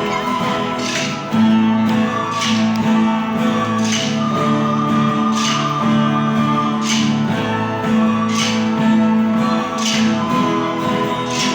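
Music: an acoustic guitar strumming a slow, steady accompaniment, with a strong strum about every second and a half.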